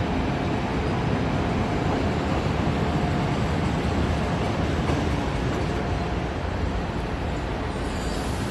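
A train running along the tracks: a steady low rumble of wheels and rail noise, with a faint steady tone riding on it.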